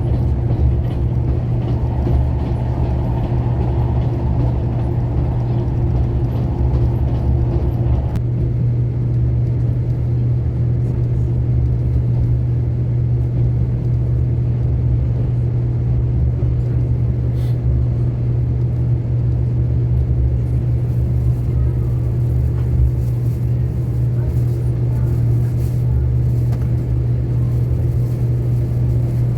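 Steady low rumble of a running vehicle, with a constant low hum throughout; some higher rushing noise drops away about eight seconds in.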